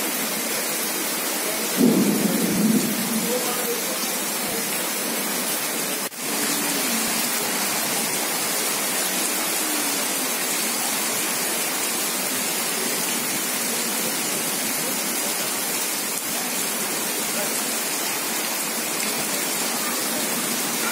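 Heavy rain pouring steadily onto wet, flooded pavement, a dense even hiss of falling water. About two seconds in there is a brief, louder rumble lasting about a second, and the sound drops out for an instant about six seconds in.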